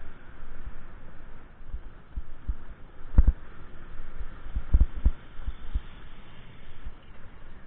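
Irregular low thumps on the microphone over a faint steady hiss, the loudest about three seconds in and a cluster about five seconds in.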